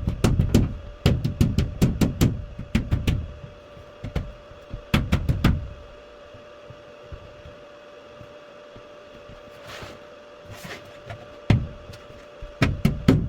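Hammer strikes in quick runs on a shower pan, dishing the drain hole down so the drain will sit below the pan surface. Each blow has a sharp knock with a low thud beneath. There is a pause of several seconds in the middle, then more strikes near the end.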